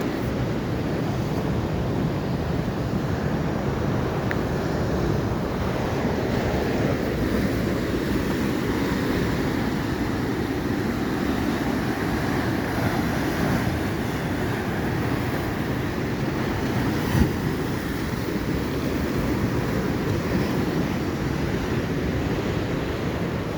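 Atlantic Ocean surf washing in steadily, with wind rumbling on the microphone. A single short knock comes about seventeen seconds in.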